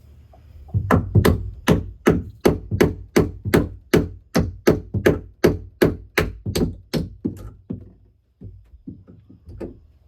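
A hammer driving a nail into a wooden roost perch: a steady run of about nineteen sharp blows, about three a second, then a short pause and a few lighter taps near the end.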